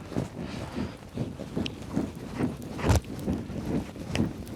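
Firewood being handled and shifted on a campfire: irregular dull knocks and rustles, with a few sharp cracks, the loudest about three seconds in.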